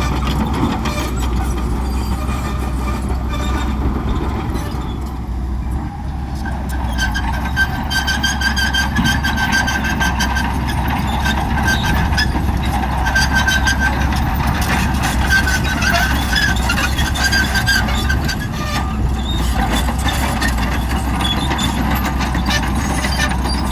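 A Shantui bulldozer's diesel engine running steadily under load with a low rumble, while high, thin whining tones come and go through the middle.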